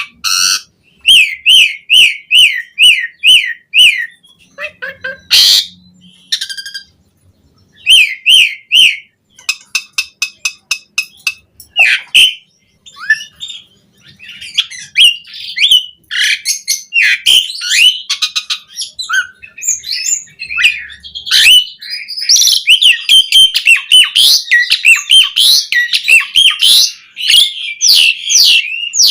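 Asian pied starling (jalak suren) singing a long, varied song. Runs of quick repeated sweeping whistles mix with harsh squawks, clicks and chatter, broken by a couple of brief pauses.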